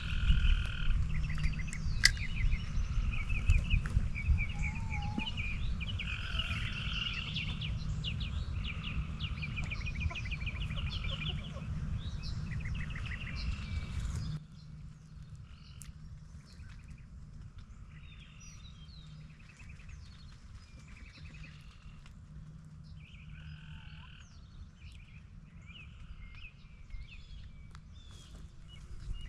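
Frogs calling from a pond in repeated pulsed trills, with birds chirping. A low rumble underlies the first half and drops away abruptly about halfway through.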